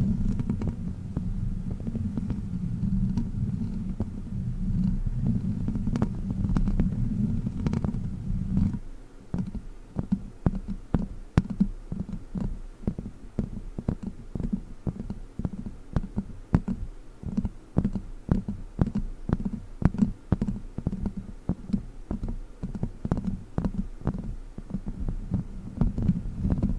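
Plastic witch-finger fingertips working directly on a microphone: first a dense, continuous low rubbing and scratching, then, about nine seconds in, quick repeated taps, each a low thump with a click.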